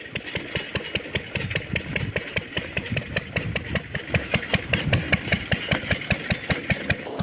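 Single-cylinder Lister D engine of a homemade narrow-gauge locomotive running with a steady, even chugging beat of several firings a second.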